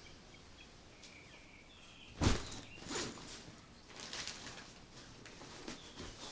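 Birds chirping faintly, with a few sharp knocks or thumps about two, three and four seconds in; the first is the loudest.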